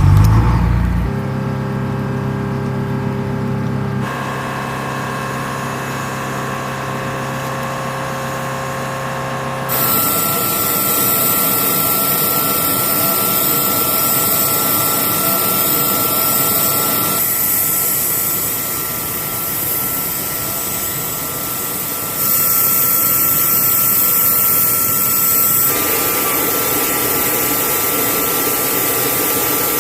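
Sikorsky HH-60G Pave Hawk helicopter's twin turboshaft engines and rotor running, a steady high whine over a lower hum. The tone and loudness jump abruptly several times.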